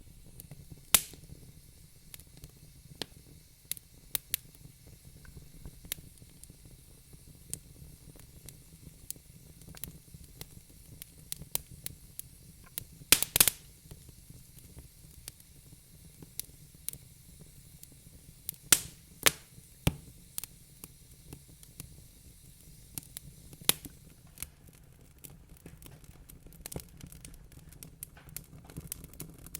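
Wood fire crackling in a fireplace: irregular sharp pops and snaps over a low, steady hiss. A quick cluster of louder pops comes about halfway through, and another about two-thirds of the way in.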